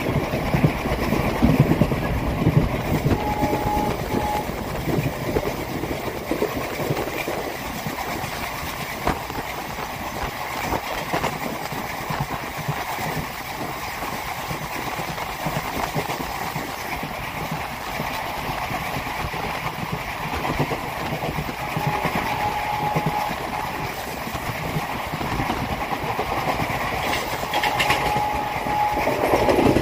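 Passenger train running at speed, heard on board: a steady rumble of coach wheels on the rails with the clickety-clack of rail joints.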